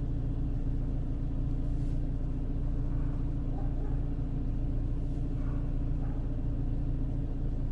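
Renault Clio III's 1.2-litre petrol four-cylinder engine idling steadily on LPG at about 850 rpm, a low, even hum.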